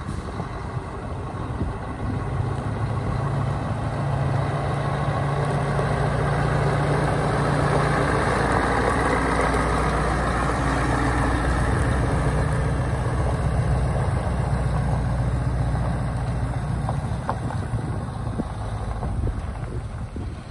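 Scania 450 truck's diesel engine running steadily, growing louder about two seconds in and easing off near the end.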